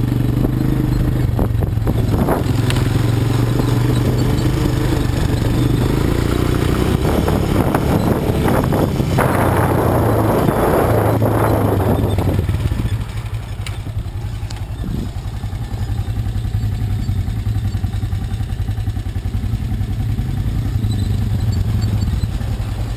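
ATV (quad bike) engine running under load over rough ground, with scattered clattering knocks. A little after halfway the sound drops to quieter, steadier running.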